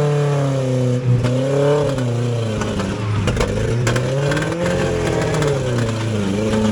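Off-road 4x4's engine revving up and down several times under load on a rock climb. Rocks clatter and scrape under the tyres through the middle.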